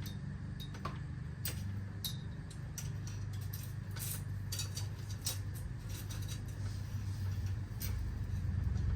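Light metallic clicks and ticks from bicycle parts and tools being handled, over a steady low rumble that grows louder near the end.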